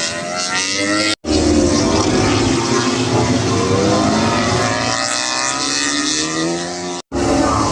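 Several MotoGP race bikes running through a corner together, their overlapping engine notes sweeping down and up in pitch. The sound drops out abruptly for an instant twice.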